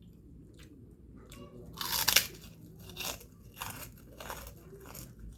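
Biting into and chewing crunchy kerupuk (crackers) close to the microphone. A loud crunching bite comes about two seconds in, then steady crunchy chewing at about one to two crunches a second.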